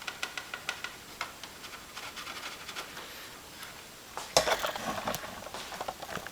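Scratching and rustling from hands handling things at close range, with many small clicks and a louder crackling rustle about four and a half seconds in.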